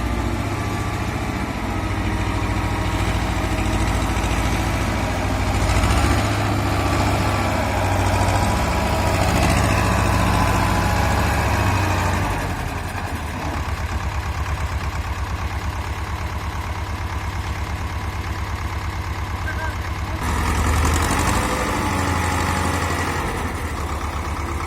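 Escorts tractor's diesel engine running under a full load. It works harder for about the first twelve seconds, eases to a steady low beat, then picks up again briefly about twenty seconds in.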